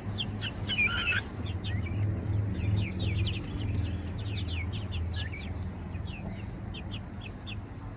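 Chickens clucking with many short, separate calls, one louder call about a second in, over a steady low hum.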